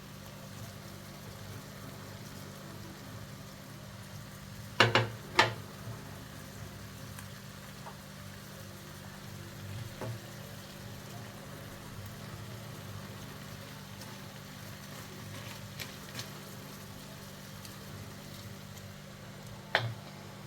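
Pasta sauce sizzling in a pan over a steady low hum, with a few sharp knocks: a loud pair about five seconds in and another near the end.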